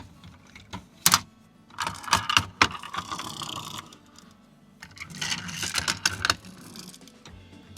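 Diecast model truck being handled: sharp clicks and spells of quick clattering from its small metal and plastic moving parts.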